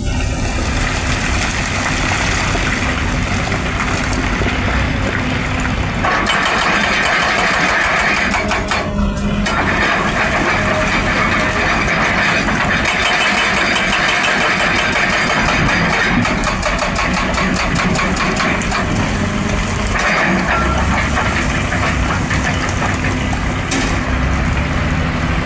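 Excavator engine running steadily under load, joined in the middle by a fast, even run of knocks from a hydraulic breaker hammering for about ten seconds.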